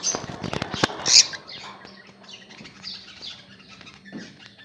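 Rosy-faced lovebirds chirping and chattering. Sharp clicks and a loud, shrill call come about a second in, then softer chirps follow.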